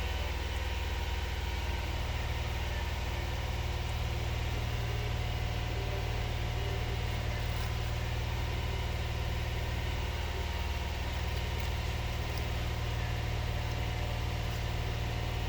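2022 Hyundai Palisade's V6 petrol engine running steadily, held at a raised speed of about 2000 rpm, with a healthy, even note.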